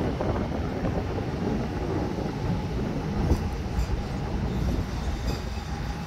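Honolulu Skyline driverless metro train running along its elevated concrete guideway: a steady rumble of steel wheels on rail, with a faint whine in the second half, easing off slightly near the end as the train moves away.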